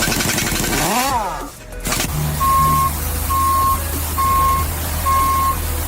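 A vehicle's reversing alarm beeping four times in a steady rhythm over a low engine rumble, starting about two seconds in. It is preceded by a sound sweeping up and down in pitch.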